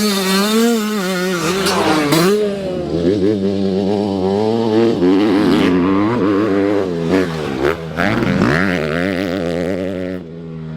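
Dirt bike engine running hard, its pitch rising and falling again and again as the throttle is worked and the gears change, dropping lower just before the end.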